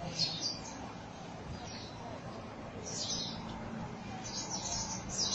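A flock of birds in a tree chirping: short, high calls scattered through, coming thicker near the end, over a steady low background hum.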